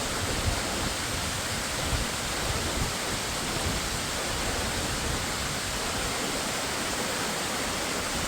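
Waterfall pouring, a steady, even rushing of water.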